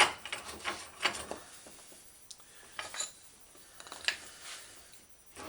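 Wooden forming blocks and a steel bicycle fender being handled while the block is swapped: a sharp knock at the start, then a few lighter clicks and clatters.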